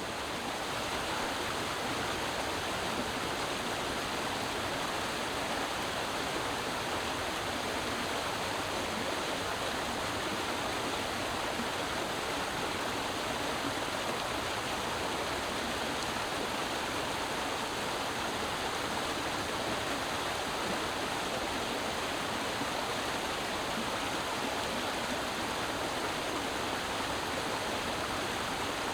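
Creek water rushing and burbling over rocks in a steady, unbroken flow.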